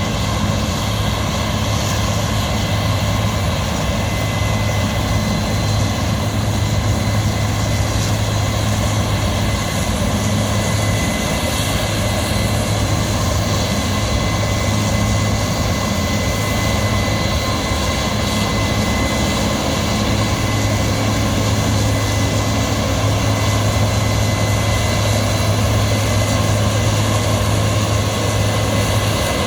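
A motor or engine running steadily at constant speed: a low hum with a thin, steady high whistle above it.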